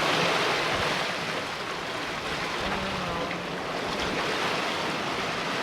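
Steady rush of wind and sea around a sailboat under way offshore.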